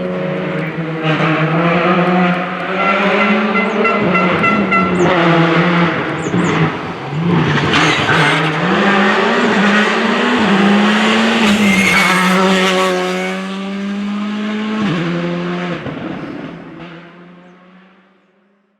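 Rally car engine on a special stage, its pitch rising and falling again and again as the driver revs up and lifts through the gears and corners, with some tyre squeal; the sound fades away near the end.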